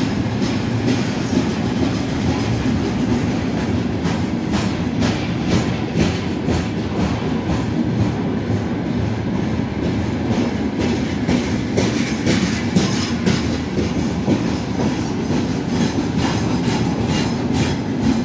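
Long freight train of open gondola wagons rolling steadily past, a continuous rumble of steel wheels on rail with repeated clickety-clack as the wheel sets cross the rail joints.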